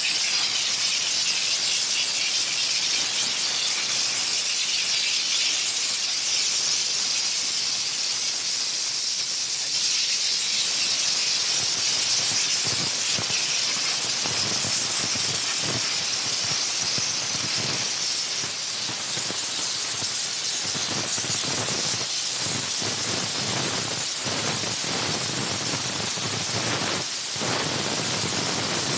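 Dry steam jetting from the gun of a 20-bar LPG-fired steam car wash machine: a steady, loud high hiss, with rougher, uneven noise lower down from about halfway through.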